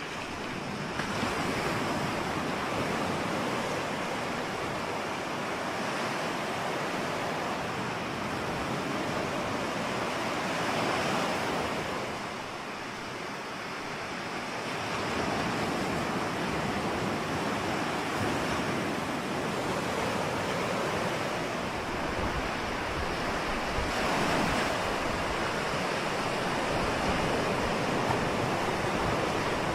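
Ocean surf: waves breaking and washing in a continuous rush that swells and ebbs every several seconds, with some wind.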